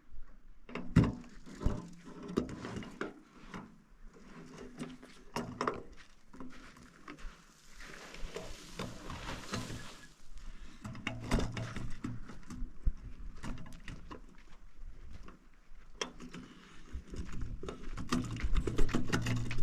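Irregular knocks, clicks and clatter of objects being handled and set down, with a short rustling hiss near the middle.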